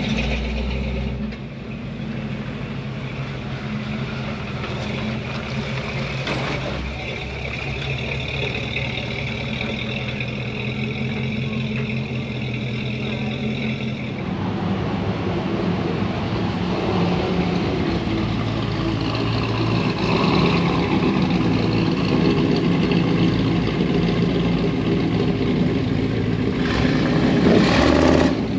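Truck engines running, with a steady pitched hum for the first half. The sound changes to a fuller, rougher engine note about halfway through and swells louder near the end.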